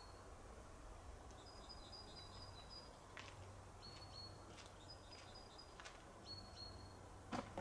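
Near silence outdoors with faint birdsong: short high chirping notes repeated in quick little runs. A louder noise starts just at the very end.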